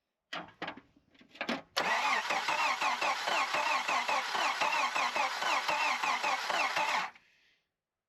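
1993 Jeep YJ engine cranking on the starter: a few short bursts, then a steady rhythmic crank for about five seconds that never catches, and stops suddenly. It turns over but does not fire because there is no spark.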